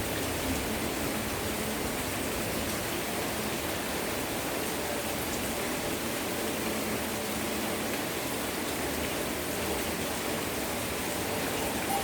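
Heavy rain falling, a steady even hiss of drops with no let-up.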